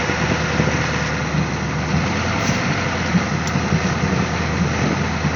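Ford 6.9 L IDI V8 diesel engine running steadily with an even, smooth rhythm.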